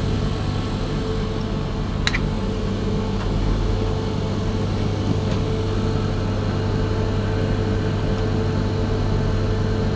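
Newly replaced refrigerator compressor running with a steady hum, just after start-up while the refrigerant has only begun to circulate and the cabinet has not yet cooled. A single short click about two seconds in.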